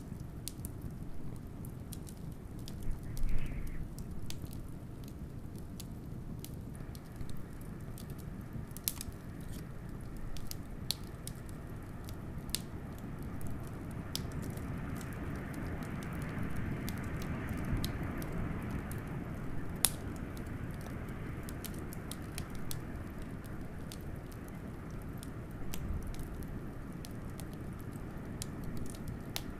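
Wood fire crackling with scattered sharp pops, the loudest about three seconds in, over a low steady rumble of wind. A gust of wind swells and fades about halfway through.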